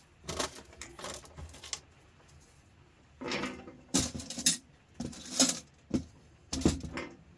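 Small pieces of scrap metal clinking and rattling as they are handled, in about eight short bursts.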